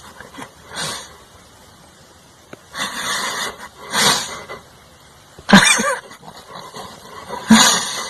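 An animal making about five short, breathy, noisy sounds with pauses between them, the loudest about five and a half seconds in.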